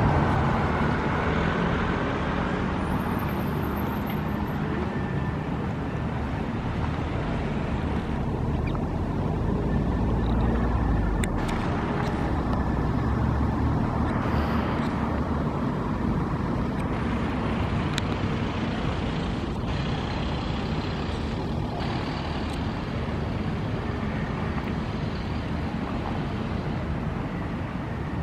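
Steady rumble of city road traffic, with a deeper rumble swelling and fading about ten seconds in and a few faint ticks.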